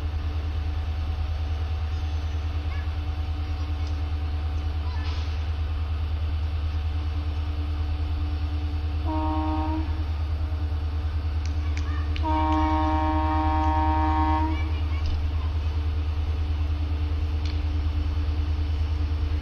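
Two blasts of an Indian Railways train horn, a multi-tone chord: a short one about nine seconds in and a longer one of about two seconds a few seconds later, over a steady low hum.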